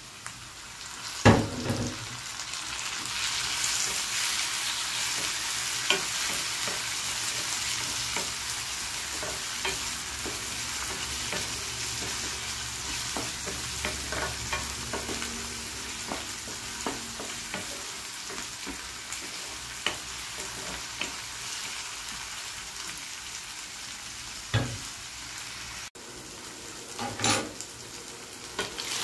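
Chopped tomatoes and onions frying in oil in a nonstick pan, a steady sizzle as they are stirred and scraped with a wooden spatula, with small clicks of the spatula on the pan. A loud knock about a second in, after which the sizzle grows, and a few more knocks near the end.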